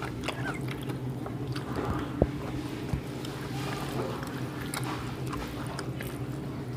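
Close-up eating sounds: chewing, lip smacks and small wet, squishy clicks as rice and meat curry are eaten, over a steady low hum. One sharper click comes about two seconds in.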